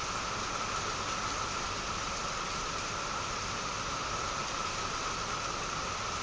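Heavy rain falling: a dense, steady hiss of rain that does not change.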